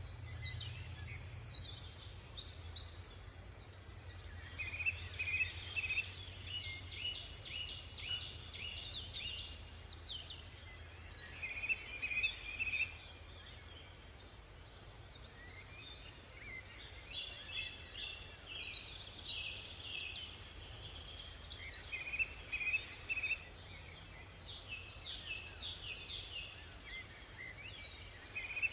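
Songbirds singing in bouts of quick, repeated chirping phrases every few seconds, over a steady high hiss and a low hum.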